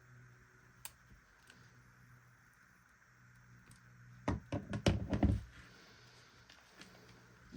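Clicks and knocks of small hard objects being handled: one sharp click about a second in, then a quick cluster of knocks and clicks around four to five seconds in, over a faint steady hum.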